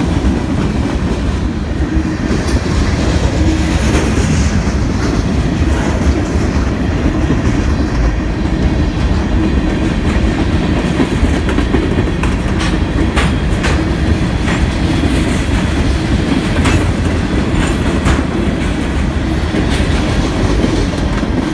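Freight cars, tank cars and covered hoppers, rolling past at close range: a steady, loud rumble of steel wheels on rail, with sharp clicks and clacks from the wheels over the rail joints, more of them in the second half.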